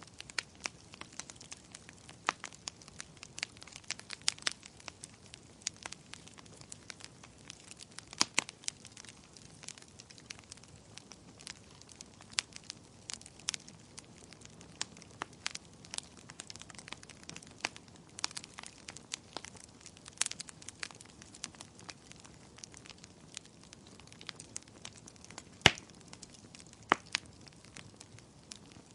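Wood fire crackling, with irregular sharp pops and snaps over a faint hiss; the loudest pop comes near the end.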